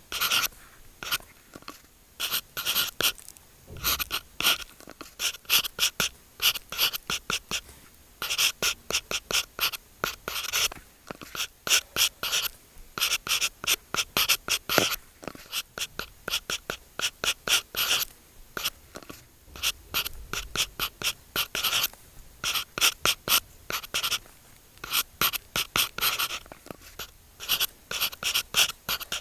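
Stylus writing on an iPad screen: quick, scratchy strokes and taps come in clusters, with short pauses between the groups of strokes.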